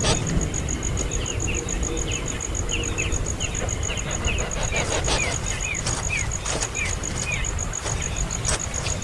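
A baby bird's short, high cheeps, about two a second, starting after a second and stopping near the end. Underneath are a steady, high pulsing trill and a low rumble.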